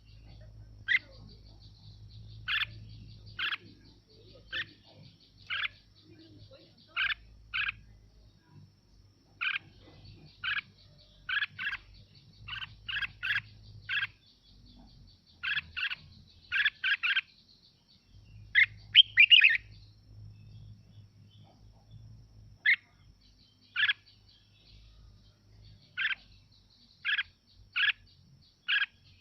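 Red-whiskered bulbul singing short, sharp phrases about a second apart, with a quicker, busier run of notes about two-thirds of the way through.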